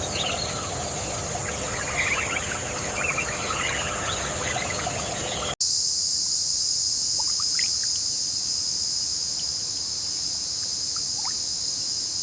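Nature ambience of a steady, high-pitched insect chorus mixed with scattered short chirps. About five and a half seconds in the sound cuts abruptly to a louder, higher insect drone with only a few chirps over it.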